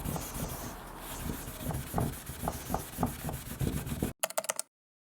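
Very fine 0000 wire wool soaked in methylated spirits being rubbed hard back and forth over a gessoed frame, stripping the old water gilding, in quick even strokes about three a second. The scrubbing cuts off suddenly about four seconds in.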